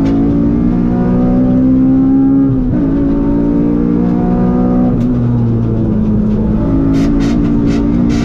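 Honda K20 four-cylinder engine of a swapped EK Civic, heard from inside the cabin, pulling hard at high revs. Its note climbs, drops sharply with an upshift about two and a half seconds in, and shifts again about five seconds in as the car goes into a fast corner.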